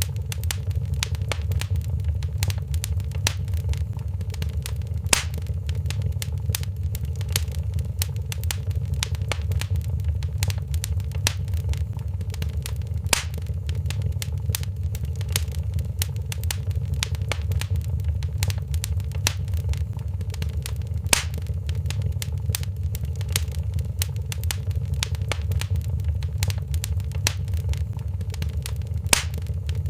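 Wood fire crackling in a fireplace: a dense run of small snaps and pops over a steady low rumble, with a louder pop about every eight seconds.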